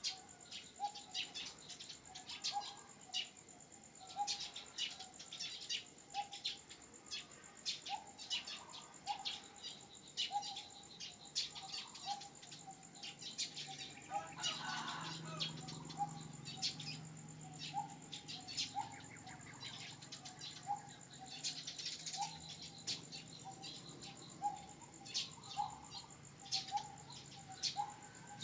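Outdoor ambience of birds chirping over a steady high insect drone, with a short lower call repeating about once or twice a second. A brief rustling burst comes about halfway through.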